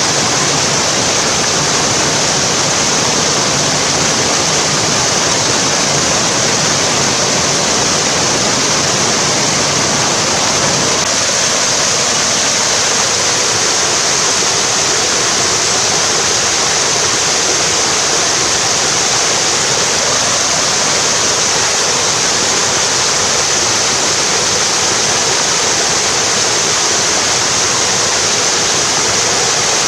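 Mountain stream cascading over rocks, a steady loud rush of water.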